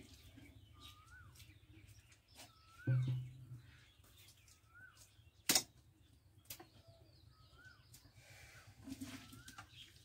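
A bird calling over and over in the background, each call a short note that rises and falls, about one every second or two. A heavy thud comes about three seconds in and a sharp knock about halfway through, with a few lighter clicks from the work on the floor.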